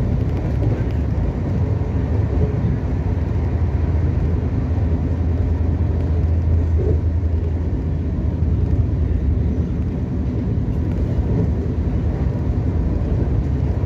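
Steady running rumble of a moving Shatabdi Express passenger coach, heard from inside, with a low hum under it.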